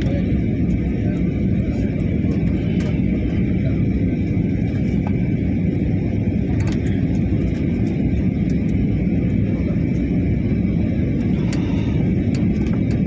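Steady airliner cabin noise in flight on the approach to landing: a deep even rumble with a thin steady whine above it and a few faint clicks.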